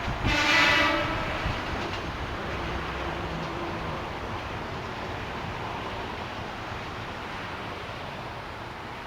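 A train going by on the line: a short horn note in the first second as the loudest of the pass ends, then the running noise of the wheels fading steadily as the train draws away.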